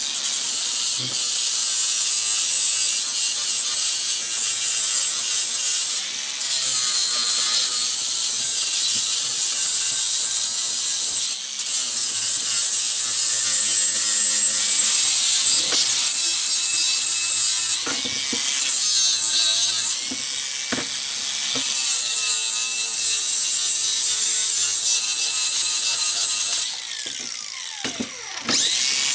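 Angle grinder with a flap disc grinding a welded steel bracket to clean it up: a loud, steady high whine with gritty hiss, dipping briefly a few times. Near the end it eases off and the pitch slides down before it comes back up to speed.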